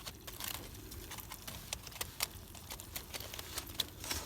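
Wood campfire crackling: irregular sharp snaps and pops over a low steady background.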